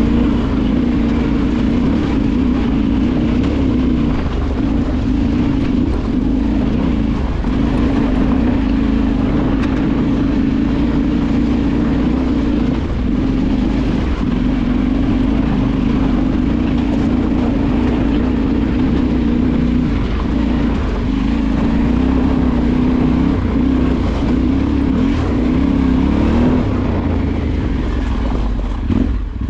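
Motorcycle engine running under load while riding off-road. The engine note holds fairly steady with brief dips as the throttle is eased, and rises and falls a few times near the end.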